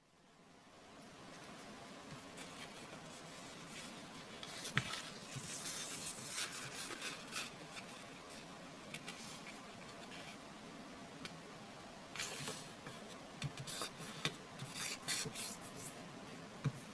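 Square origami paper being handled and folded by hand: soft rustling and rubbing as creases are pressed, with a few sharp crinkles, getting busier in the second half.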